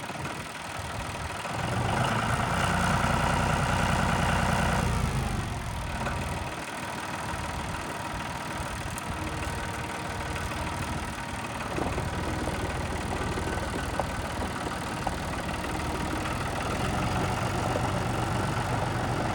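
John Deere 5055D tractor's diesel engine running, louder for a few seconds near the start, then settling back to a steadier idle.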